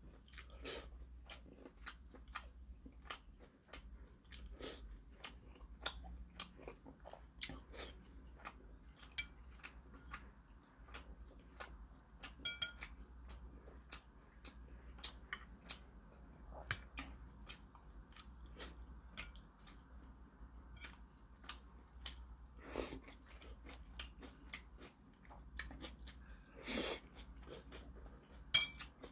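Close-up eating sounds: chewing and mouth noises as tofu stew is eaten, with many short clicks of metal chopsticks and a spoon against the bowl, and two longer, louder noises late on.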